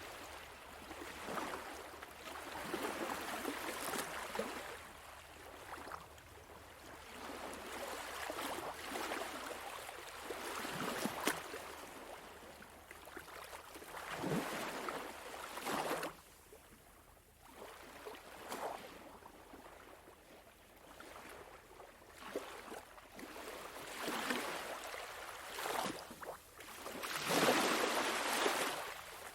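Small sea waves washing onto a sandy shore, the wash rising and falling away every few seconds, loudest near the end.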